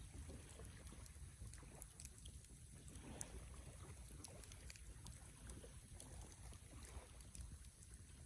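Wood campfire crackling faintly, with scattered small ticks and pops over a low steady rumble.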